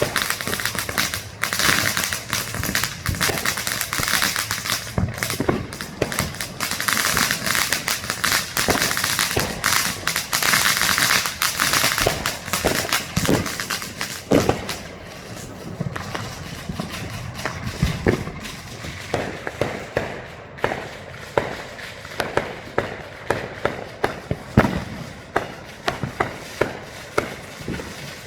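Consumer fireworks and firecrackers going off: dense crackling for about the first twelve seconds, then separate sharp bangs and pops with some deeper booms, the loudest about three-quarters of the way through.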